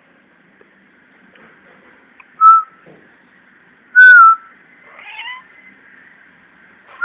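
A cat making short, high, whistle-like squeaks, each dipping slightly in pitch: two loud ones about two and a half and four seconds in, a fainter one about five seconds in, and another at the very end.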